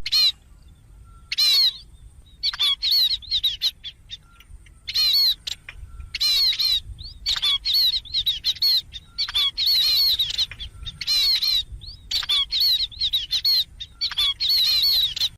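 A songbird singing: short runs of quick, high, down-slurred chirping notes, repeated over and over with brief pauses between them.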